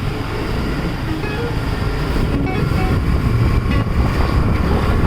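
Wind buffeting the microphone of a moving motorbike, over steady road and engine noise.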